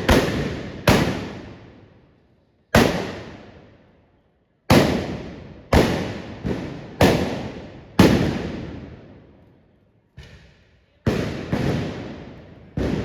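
Trabucs (blunderbusses) firing blank gunpowder charges in a trabucaire volley: about a dozen loud, sharp blasts at irregular intervals, some close together in pairs, each followed by a long echoing decay.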